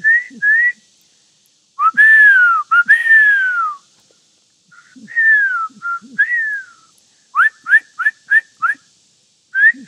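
A person whistling bird-call imitations. A couple of short rising chirps open it, then long falling whistled notes, then a quick run of about five short rising chirps near the end.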